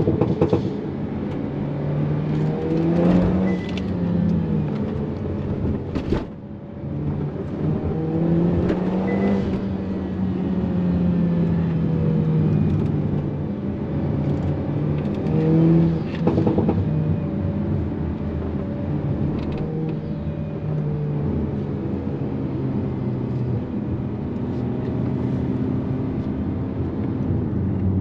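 Hyundai Kona N's turbocharged 2.0-litre four-cylinder under hard driving, its note rising and falling through the gears and stepping at each gear change. A few sharp cracks cut through, the clearest at the start and about six seconds in.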